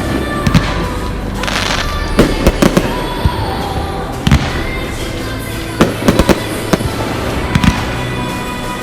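Fireworks going off: repeated sharp bangs, several in quick clusters, with a brief crackling hiss about one and a half seconds in.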